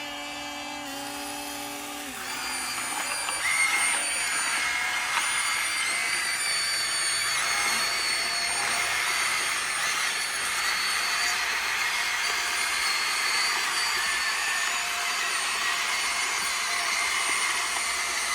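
RC excavator's electric motor and hydraulic pump running: a steady high-pitched whine over a rushing noise, growing louder about two and a half seconds in.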